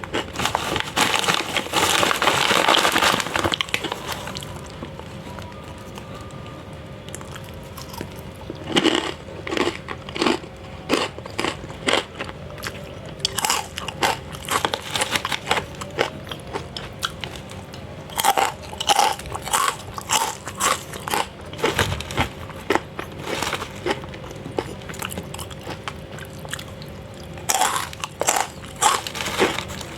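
Crunchy snack being bitten and chewed close to the microphone, in crackling bursts of crunches separated by quieter stretches of chewing.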